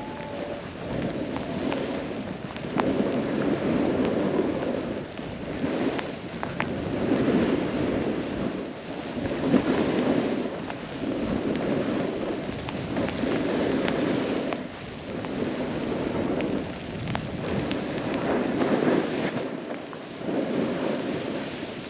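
Snowboard riding through deep powder snow, a swooshing rush that swells with each turn about every two seconds, mixed with wind noise on a helmet-mounted camera's microphone.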